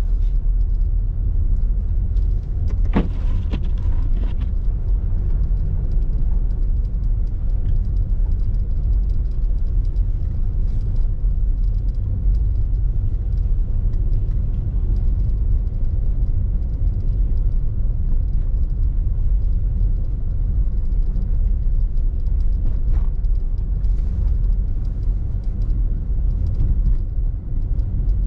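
Steady low rumble of a car driving, heard from inside the cabin, with engine and tyre noise on the road. A single short click about three seconds in.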